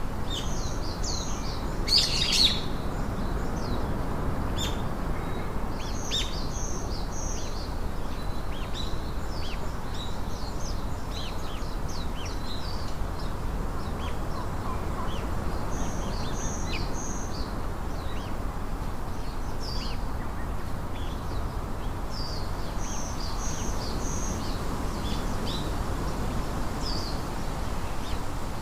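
Several songbirds chirping and calling over steady low background noise. A short, high three-note phrase repeats every several seconds, and a louder, sharper call comes about two seconds in.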